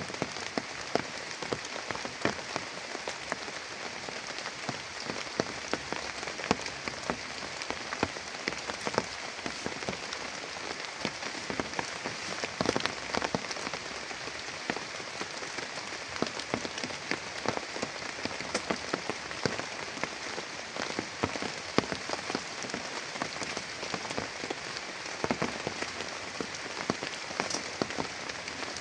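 Heavy rain falling steadily, with many individual drops tapping sharply on a nearby surface.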